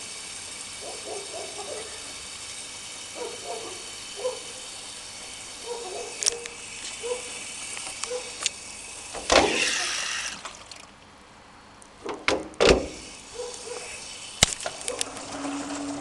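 Miele washing machine taking in water, a steady hiss of inflow that stops about two-thirds of the way through. A few loud knocks follow near the end.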